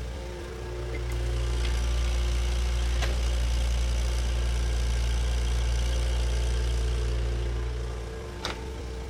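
Bulldozer diesel engine running steadily, growing louder about a second in and easing off near the end, with a sharp clank near the end.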